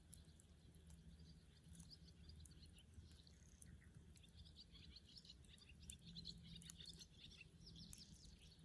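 Faint twittering of small birds, a rapid run of short chirps that grows denser about halfway through, with a few soft crackles from a burning wood fire.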